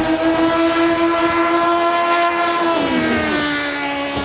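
High-revving racing-boat engine screaming at a steady high pitch, then dropping in pitch about three seconds in as it passes by and begins to fade.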